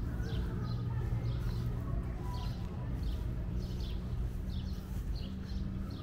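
Small birds chirping, short high calls about once or twice a second, over a steady low hum.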